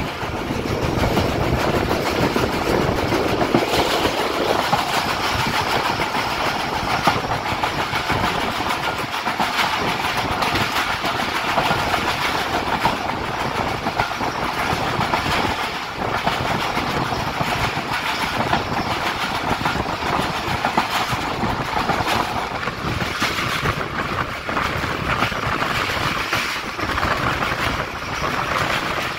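Passenger train coaches running at speed: a steady rumble of wheels on the rails with the clickety-clack of the rail joints, heard from an open carriage window.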